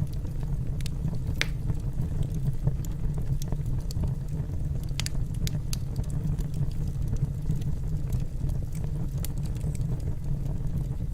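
Wood fire in a fireplace: logs burning with a steady low rumble and irregular sharp crackles and pops from the wood.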